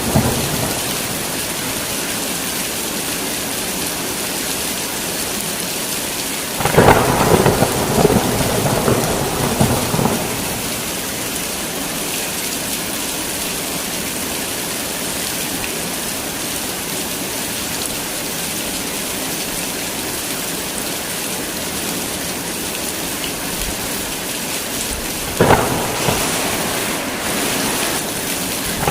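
Heavy rain falling steadily in a thunderstorm. A clap of thunder comes about seven seconds in and rumbles on for roughly three seconds, and a second, sharper crack of thunder comes near the end.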